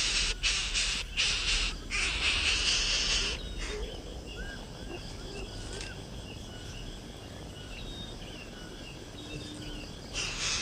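Raspy begging calls of nestlings, repeated about twice a second and then held for a second or so, stopping a little over three seconds in. After that come faint scattered short chirps.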